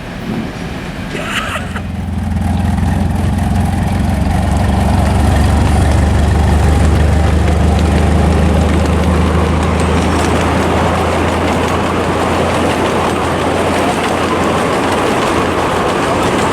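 Diesel locomotive passing: a steady low engine drone starts about a second and a half in, and the rushing noise of wheels on rail builds from about four seconds, running on after the engine note fades near the end.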